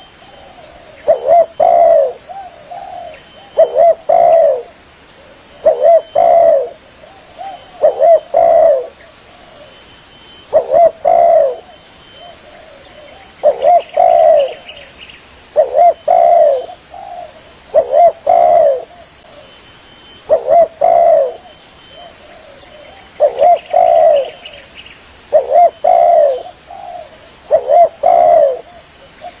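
Spotted dove (tekukur) cooing: a short note and then a longer, wavering coo, repeated about every two and a half seconds, as in a lure call used to draw doves in.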